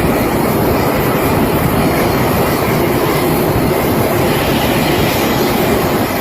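Loud, steady rumbling roar of a large jet airliner on landing.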